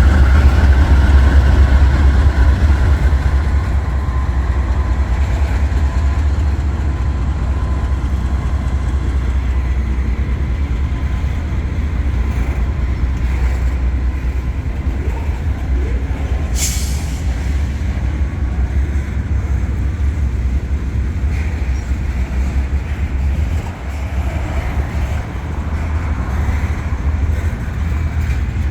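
Freight train rolling past, a steady low rumble of cars on the rails, loudest in the first few seconds. A short sharp hiss about seventeen seconds in.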